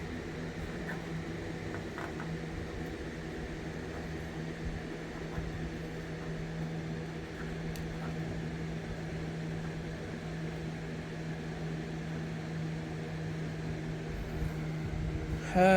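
A steady low machine hum with one droning tone, unchanged throughout.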